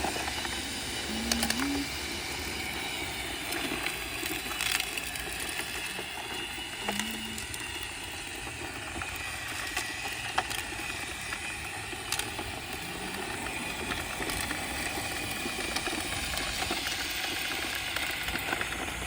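Roomba 671 robot vacuum running on a concrete driveway, a steady whirring drone of motor and brushes with scattered clicks as it picks up debris.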